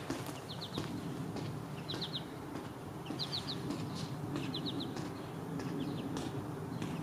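A small bird calling over and over: quick groups of three or four short, high, down-slurred notes, repeated a little more than once a second, over a steady low background rumble.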